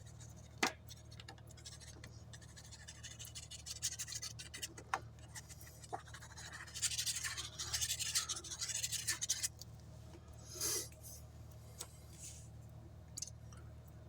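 Glue being spread across a piece of cardstock by hand: scratchy rubbing strokes in short spells, the longest in the middle, with a sharp click about half a second in.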